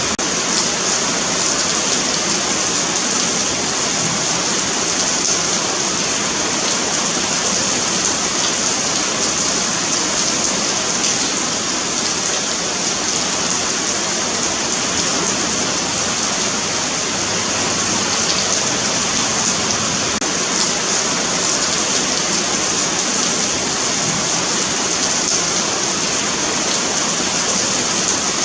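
Steady rain falling on a pavement, a dense even hiss with fine patter of individual drops.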